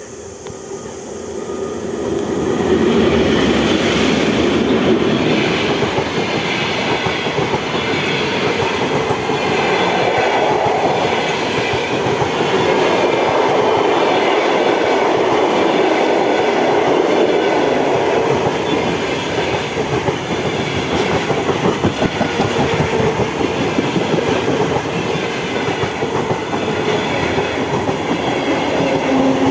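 A train running past at close range, its wheels clattering along the rails. It grows loud about two seconds in and stays loud and steady.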